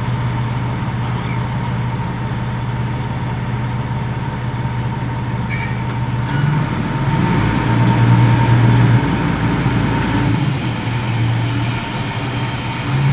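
Reach stacker's diesel engine running steadily, then revving up and working harder from about six seconds in.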